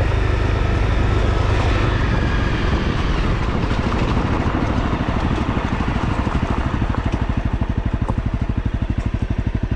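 Honda CRF250L's single-cylinder four-stroke engine running, then settling about halfway through into an even, fast-pulsing idle as the bike comes to a stop.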